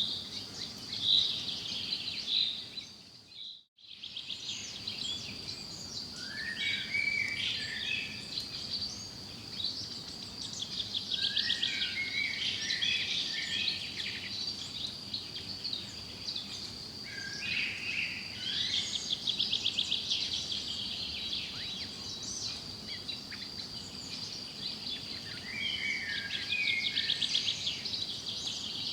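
Several songbirds singing in a forest: scattered chirps, whistled phrases and fast trills overlapping, over a steady high-pitched tone. The sound drops out briefly about three and a half seconds in.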